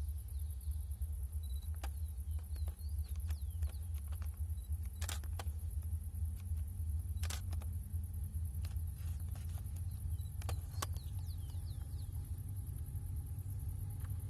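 Heavy iron-ore freight train running past: a steady low rumble with scattered sharp clicks.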